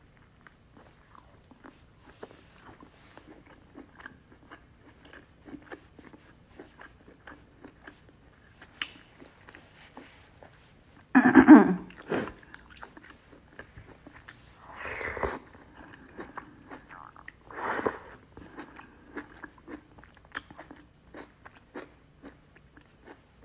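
A person eating soup with vegetables, tofu and chicken close to the microphone: chewing with many small wet mouth clicks. Three louder noisy sounds come about halfway through and twice more after.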